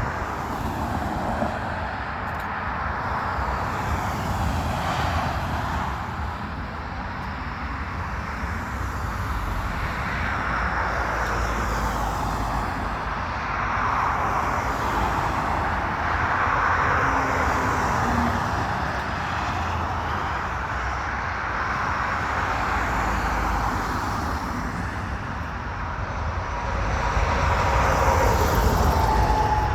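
Boeing 737-8200 MAX's CFM LEAP-1B turbofan engines at takeoff power as the jet departs: a steady rush of jet noise that grows louder near the end.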